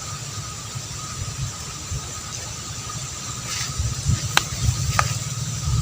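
Wind rumbling on the microphone over two faint, steady high whines, with two sharp clicks about four and a half and five seconds in.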